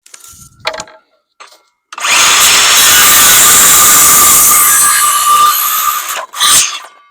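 A handheld power tool running under load through wood for about four seconds, with a steady motor whine, followed by a short second burst; a few light knocks just before it.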